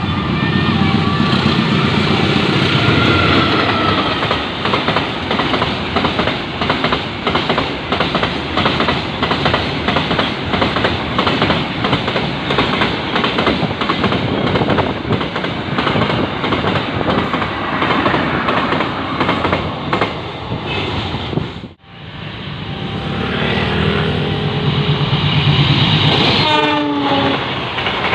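A passing train: a locomotive engine hum, then the wheels clacking steadily over rail joints as the carriages go by. After an abrupt cut, another locomotive approaches, and a horn sounds briefly near the end.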